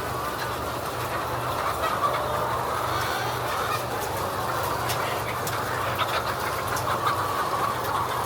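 A flock of laying hens clucking and calling together over a steady low machine hum.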